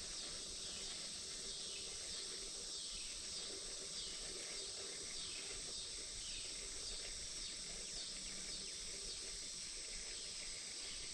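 Steady high-pitched insect chorus, with a run of short, repeated falling chirps over it.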